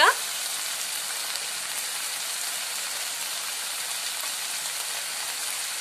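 Chopped onions frying in oil in a pan: a steady, even sizzle.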